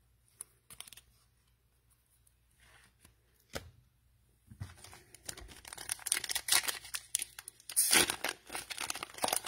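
A few faint clicks, then from about four and a half seconds in, continuous crinkling and tearing as the cellophane wrapper of an NBA Optic trading-card cello pack is ripped open.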